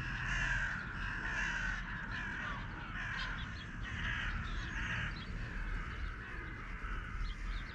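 A group of crows cawing, many short calls overlapping one another.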